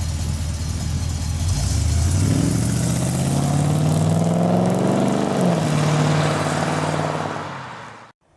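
An engine idling, then revving up about a second and a half in and holding high revs. It eases back a little, then fades out and cuts off.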